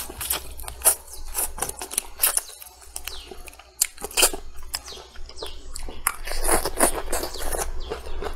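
Close-up chewing and wet lip-smacking on braised meat, a rapid run of mouth clicks and smacks. Small birds chirp in the background.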